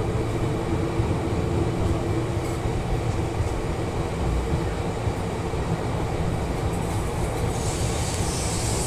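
Moving passenger train heard from the side of a coach: a steady rumble of wheels on the rails, with a hiss that grows louder near the end.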